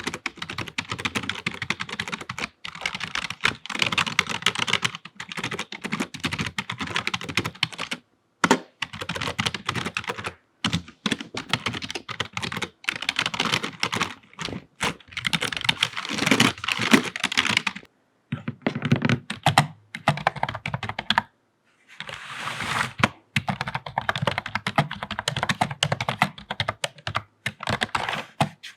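Fast typing on a computer keyboard: dense runs of key clicks and clatter, broken by a few short pauses.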